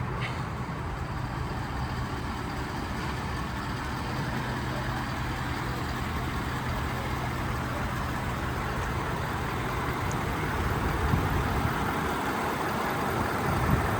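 Ford F-350 Super Duty pickup truck engine idling steadily with a constant low hum.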